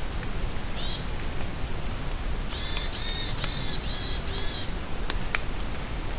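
Steady rain falling in a forest, with a bird giving one short high call about a second in, then a run of five quick, loud calls at about two to three a second. A few sharp ticks follow near the end.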